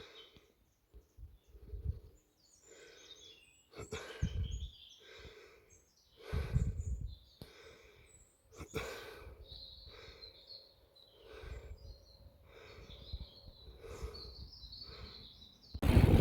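Small birds chirping outdoors, with intermittent low rumbles and a few short knocks of wind or handling noise on the microphone; louder low rumbling sets in near the end.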